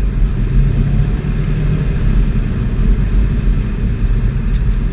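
2016 Subaru WRX's turbocharged flat-four running through a GReddy SP cat-back exhaust: a steady, deep low rumble.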